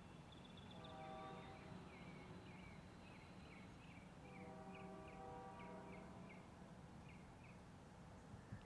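Faint outdoor ambience: a small bird chirping in quick repeated short notes over a steady low hum, with two longer, lower pitched calls about a second long each.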